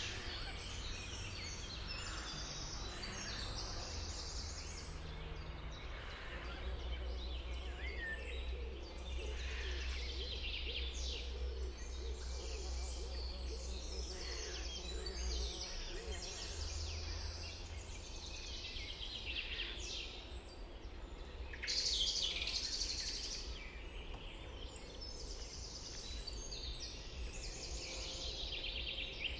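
Many birds singing at once, a dense chorus of overlapping chirps and trills, with a louder burst about three-quarters of the way through. A steady low rumble runs underneath.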